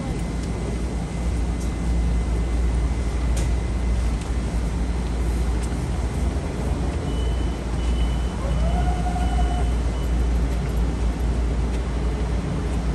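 Electric commuter train standing at a station platform, its onboard equipment giving off a steady low hum. A brief faint tone and a few short high beeps come about halfway through.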